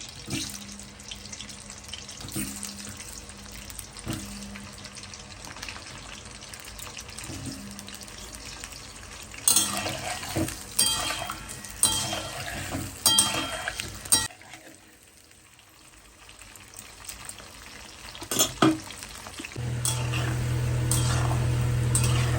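Potatoes frying in hot oil in a kadai, a steady sizzle, with a spatula clinking and scraping against the metal pan for a few seconds midway. A steady low hum comes in near the end.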